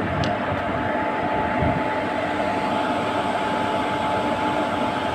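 Goods-train locomotive standing ready to depart with its machinery running: a steady hum with a constant tone on top.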